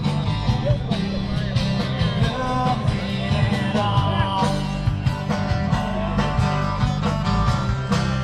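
Rock band playing, electric guitar over bass and drums with a steady beat.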